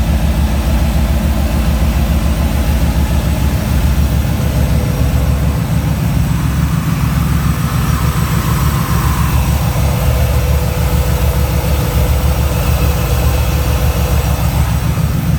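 2003 Ford F-150 SVT Lightning's built, supercharged 5.4-litre V8 idling steadily.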